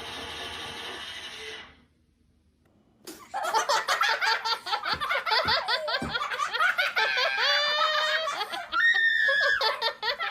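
Music cuts off about two seconds in, then after a second of silence people laugh, the laughter running on with rapid pitched rises and falls.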